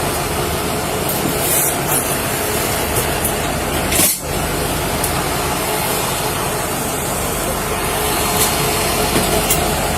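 Steady noise of vehicles running at a roadside crash scene, an engine humming under a constant hiss, with a brief dropout about four seconds in.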